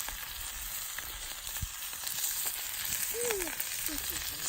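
Food sizzling and frying in a hot pan, a steady crackly hiss, with a short falling squeak about three seconds in.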